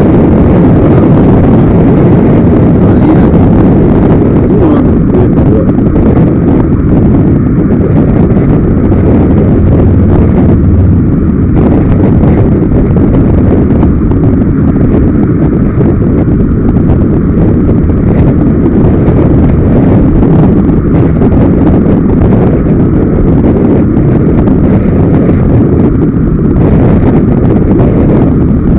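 Loud, steady wind noise rushing over a helmet-mounted camera's microphone while riding a motorcycle at road speed.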